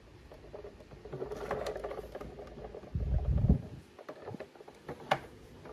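Hands handling a plastic toy van: light rubbing and rustling, a dull low bump about three seconds in, and a few small plastic clicks near the end.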